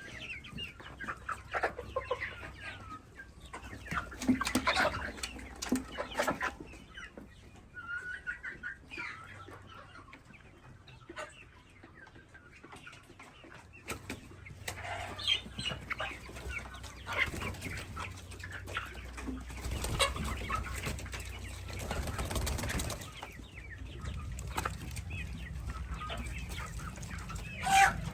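Baby chicks peeping and chickens clucking in short, irregular calls, with scattered short scuffs and knocks and a low steady rumble underneath in the second half.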